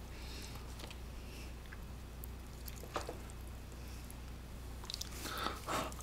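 A person eating close to the microphone: quiet chewing, a short sharp sound about three seconds in, and a few louder wet mouth sounds near the end as a mouthful of seasoned noodles and bean sprouts goes in.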